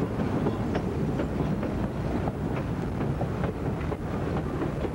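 Steam-hauled excursion train running along the track: a steady low rumble with frequent sharp, irregular clicks and knocks from the wheels and cars.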